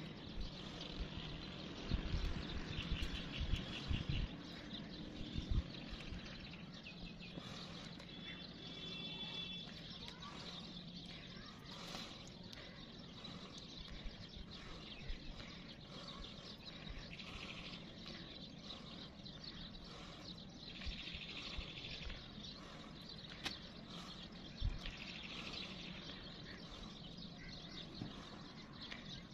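Small birds chirping now and then over a steady background hiss, with a few low bumps in the first six seconds.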